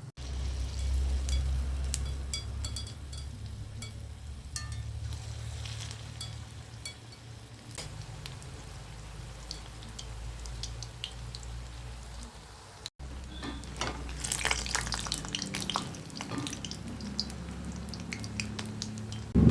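Chicken pakoda batter deep-frying in hot sunflower oil, sizzling and crackling over a steady low hum. The crackling grows denser about two-thirds of the way through.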